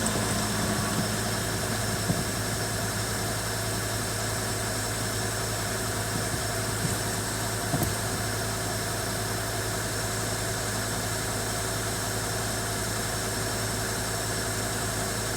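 Ford Ranger 3.2-litre five-cylinder turbo-diesel engine idling steadily, with a few brief light clicks.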